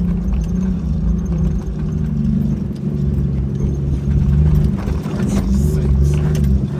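Jeep Wrangler YJ engine running as it drives through soft sand, its pitch stepping up and down as the revs change, with a few knocks and rattles around five seconds in.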